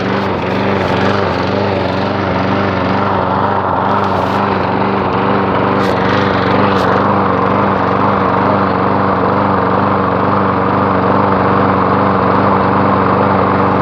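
4.5-horsepower Briggs & Stratton lawn mower engine running steadily at a constant speed, on its first run of the season after being primed and started.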